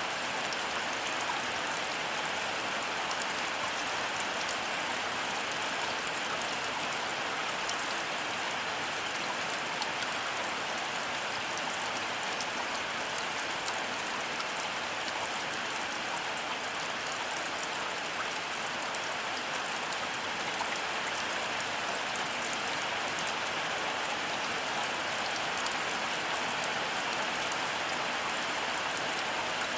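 Heavy rain falling steadily, a constant even hiss of drops striking surfaces, with no thunder.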